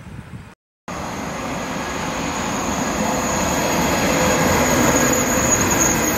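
TGV inOui double-deck high-speed train passing at speed: a steady rush of wheels and air that grows louder as it goes by, with a thin, high whine over it. The sound cuts out briefly about half a second in.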